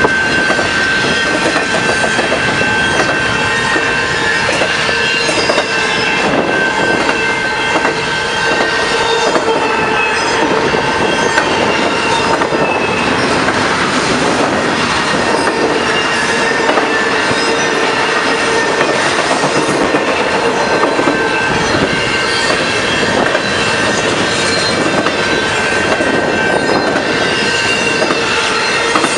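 CN intermodal freight train's cars rolling steadily past at close range: a continuous loud rumble and clatter of wheels over the rails, with steady high-pitched wheel squeal riding over it.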